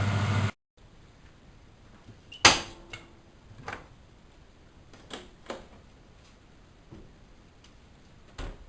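Miele WS 5105-C washing machine running with a steady hum that stops abruptly about half a second in. Then scattered sharp clicks and knocks, the loudest about two and a half seconds in with a brief ring after it.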